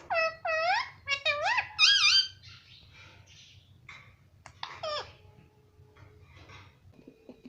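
Pet parrot calling: a quick run of high, squeaky calls that dip and rise in pitch during the first two seconds, then softer chatter and two more calls near five seconds.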